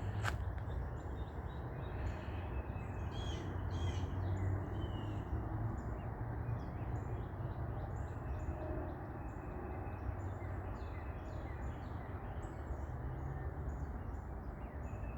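Woodland birds chirping and calling, many short notes repeating throughout, over a steady low rumble.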